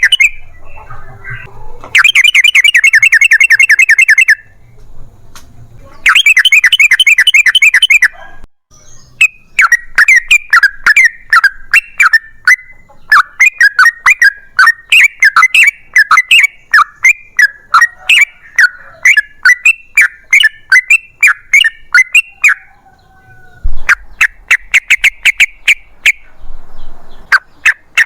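Yellow-vented bulbul (trucukan) singing its long rolling song: short bursts of very fast repeated notes, then a long choppy run of bubbly chatter, then another fast burst near the end.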